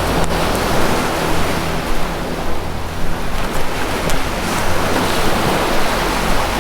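Ocean waves washing and breaking in a continuous surge, over a low steady droning tone from the soundscape's 432 Hz music bed.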